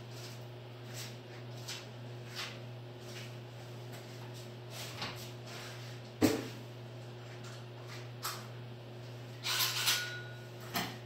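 Scattered light clicks and knocks of tools or parts being handled, with one sharp knock about six seconds in and a short scraping rustle near the end, over a steady low hum.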